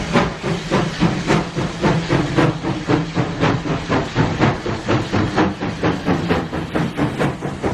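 Bagnall 0-6-0 saddle tank steam locomotive working under steam, its exhaust beats coming evenly at about three a second over a steady hiss.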